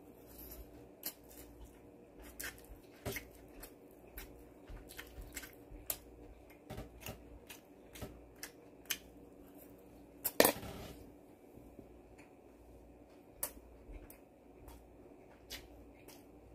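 Close-up eating sounds of a man chewing crispy fried pork (guobaorou): irregular wet mouth clicks and smacks throughout, with one louder noise lasting about half a second a little past halfway.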